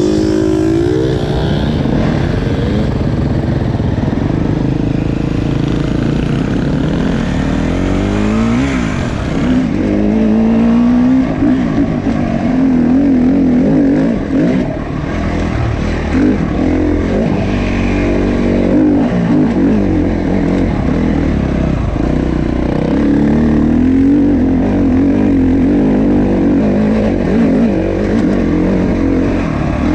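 Dirt bike engine running under way, its pitch rising and falling again and again with throttle and gear changes.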